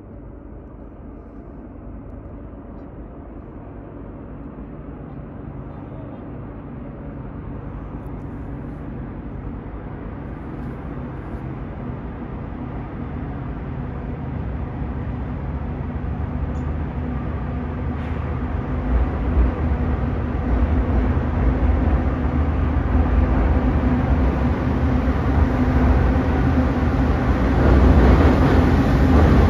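Diesel locomotives of an approaching freight train: a low engine rumble that grows steadily louder throughout, loudest as the locomotives roll onto the steel truss bridge near the end.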